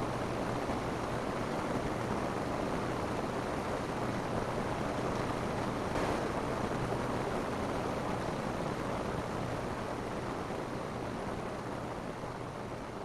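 Steady rain falling on a roof: an even hiss with one brief louder spatter about halfway, growing slightly quieter near the end.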